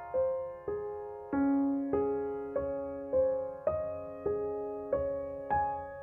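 Slow background piano music: single notes struck about every half-second and left to ring out.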